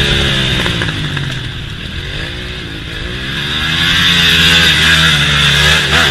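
Motorcycle engine running hard, its pitch falling and rising several times as it is revved up and down.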